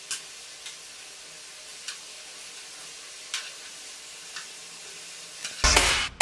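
Food sizzling in hot oil, a steady hiss with a few sharp pops, cut off near the end by a much louder rushing noise.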